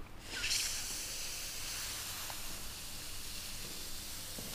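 Steady hiss of a man blowing hard through the end grain of a split firewood log, forcing air through the wood's open pores into a film of dish soap on the far end. The air getting through to foam the soap is the sign that the log is dry enough to burn.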